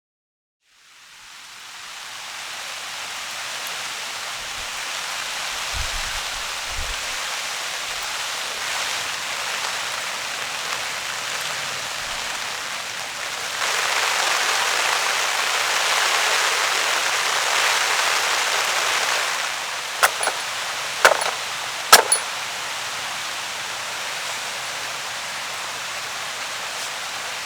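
Steady rain falling, rising in from silence and coming down harder for several seconds in the middle. A few sharp cracks or taps stand out about two-thirds of the way through.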